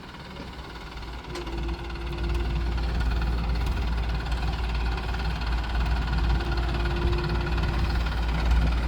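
Tractor diesel engine working hard, pulling a heavily loaded trolley up a ramp. It grows louder over the first two seconds, then runs steadily.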